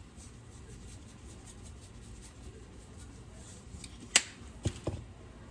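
One sharp click about four seconds in, then two lighter knocks, from kitchen utensils handled at the pot, over a low steady background.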